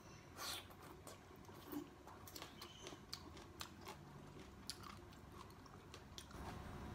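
Faint close-up chewing of a mouthful of vegetables from sour shrimp soup, with scattered small sharp clicks and wet mouth sounds.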